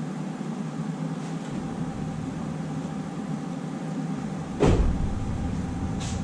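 A steady low hum, then one loud, heavy thump about four and a half seconds in, followed near the end by a few light clicks.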